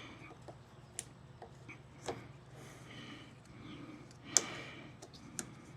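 Scattered light clicks and knocks of small parts and tools being handled, with one sharper knock about four and a half seconds in, over a faint low hum.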